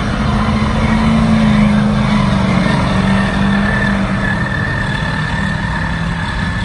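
A truck engine running loud and steady under load, its pitch easing slightly a little under halfway through.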